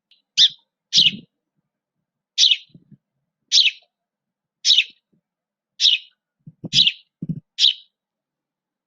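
A bird chirping: a series of about eight short, high chirps, roughly one a second.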